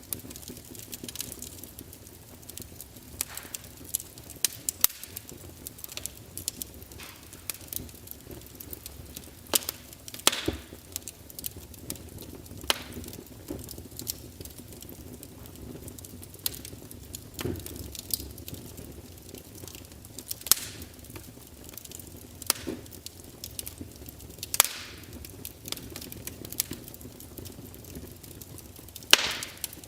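Wood fire crackling: irregular sharp pops and snaps every second or few, over a soft steady background hiss.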